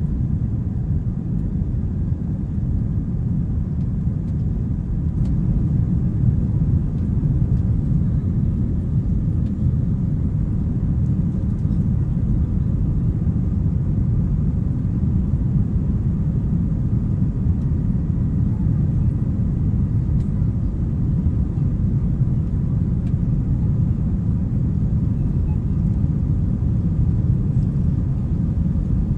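Airbus A321-200 jet engines running: a steady low rumble with faint steady tones above it, holding level throughout.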